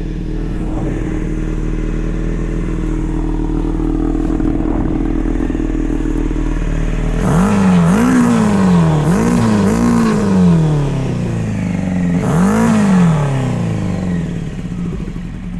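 600cc engine of a home-built Powerwheels mini car running at a steady speed, then revved up and back down in several quick throttle blips, three close together and one more a couple of seconds later.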